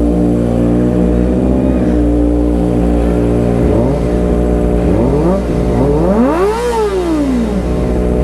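Kawasaki ZX-25R's 250 cc inline-four idling steadily, then revved with several short throttle blips and one longer rev that rises and falls about two-thirds of the way through.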